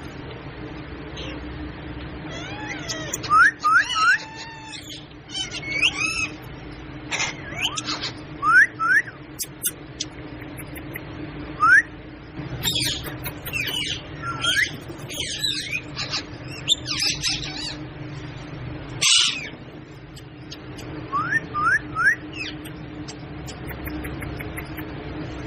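Pet parrot calling: a series of chirps, whistles and short rising whistles, with one louder harsh call about three-quarters of the way through. A steady low hum runs underneath.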